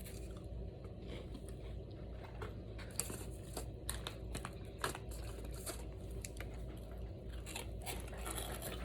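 Scattered crinkles and crackles of snack wrappers being handled, mixed with chewing of crunchy snacks, over a low steady room hum.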